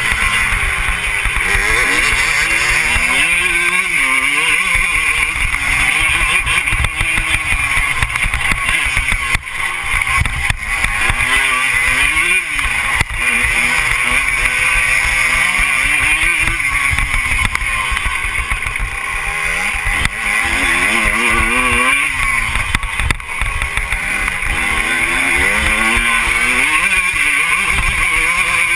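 Motocross bike engine being ridden, its pitch climbing and dropping again every few seconds as it is revved up and backed off, with heavy wind noise.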